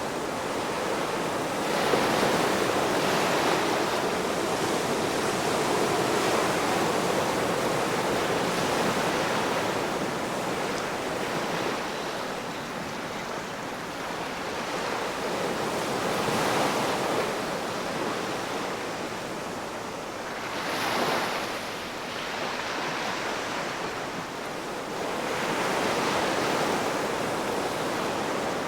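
Ocean waves breaking and washing on the shore, a continuous hiss of surf that swells with each wave, about every five seconds.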